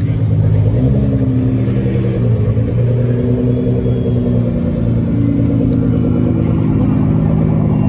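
A car engine running at low revs, its pitch shifting up and down a few times with light throttle changes, with a short dip and rise in revs about two and a half seconds in.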